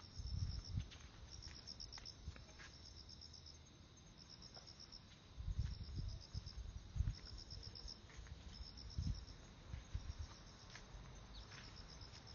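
An insect chirping in short pulsed trills, about one a second, high-pitched and steady in rhythm. Under it, soft footsteps and clothing rustle on the clip-on microphone.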